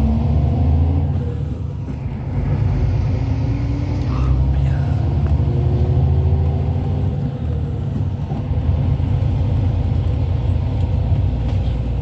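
Hyundai Universe Space Luxury coach driving, heard from inside the cabin: a steady low engine and road rumble, the engine note rising slowly several times.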